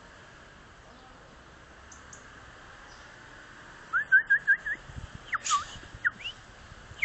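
Parrot calling: about four seconds in, a quick run of five short rising whistled chirps, then a louder swooping whistle with a harsh note and a few more short rising whistles.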